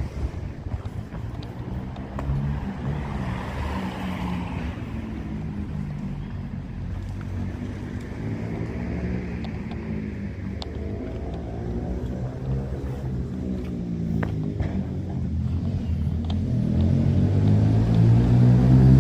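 A motor vehicle engine running close by, its low pitch drifting slowly, growing louder over the last few seconds as it approaches.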